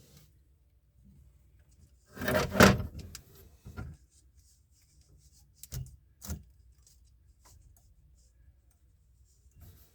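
Handling noise as Teflon (PTFE) thread tape is unrolled and wrapped onto a threaded plastic drain fitting. A loud rattling, rustling burst comes about two to three seconds in, then two sharp clicks a few seconds later, with faint crackling of the tape in between.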